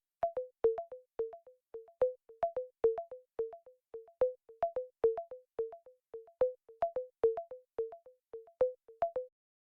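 Be My Eyes app's Be My AI processing sound: short electronic blips looping in a higher-then-lower two-note pattern, a couple of times a second, signalling that the AI is still analysing the photo just taken. It stops about nine seconds in.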